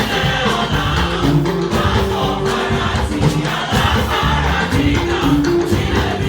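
Church choir singing an anthem with instrumental accompaniment and drums.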